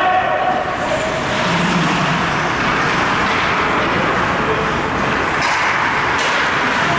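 Steady, loud din of an ice hockey arena during a game, with faint distant voices within it.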